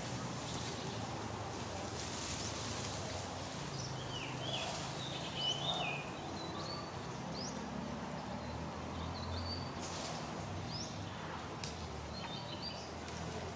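Outdoor ambience: a steady low rumble, with a small bird chirping in short, quick phrases several times from about four seconds in. A thin, high steady whine joins near the end.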